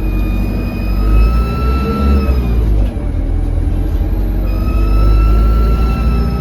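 Diesel engine of an Alexander Dennis Enviro200 single-deck bus running under load, heard from inside, with a high turbo whistle that swells and fades twice over the low engine rumble. The uploader puts the whistle down to a turbo leak.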